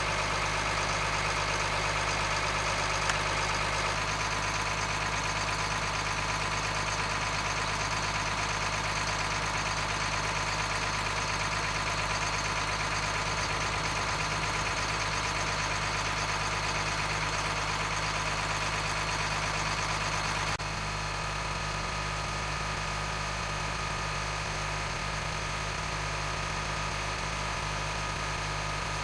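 M1078 LMTV diesel truck engine idling steadily, with a small step down in level about twenty seconds in.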